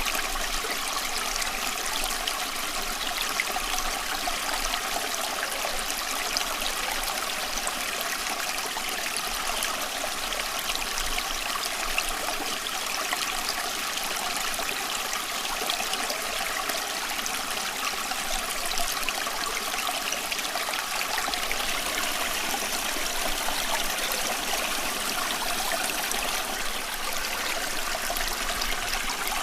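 Running water from a flowing stream: a steady, even rush with trickling, unchanging throughout.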